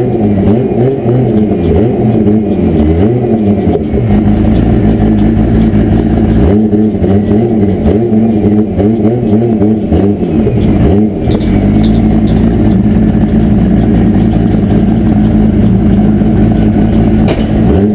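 Audi S2 drag car's turbocharged engine, heard from inside the stripped cabin, revving up and down repeatedly for the first ten seconds or so, then settling into a steady, even run.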